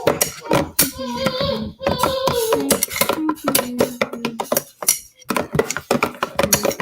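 Slime being stirred by hand in a plastic container: a quick, irregular run of clicks, taps and squelches from the mixing utensil. A voice holds a few steady sung notes partway through.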